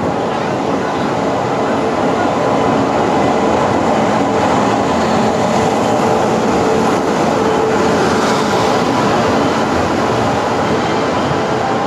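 Express train pulling into a station platform, its coaches rolling past close by: a loud, steady noise of wheels running on the rails.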